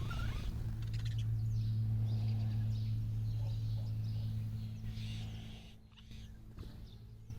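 Faint high chirps of small birds over a steady low hum, which is the loudest sound throughout.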